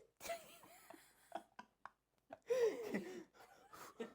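A person's voice making short, quiet vocal sounds, then a louder drawn-out vocal sound about two and a half seconds in.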